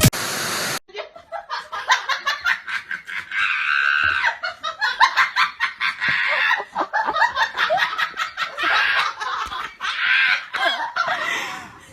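Hearty laughter in quick successive bursts, after a brief hiss in the first second.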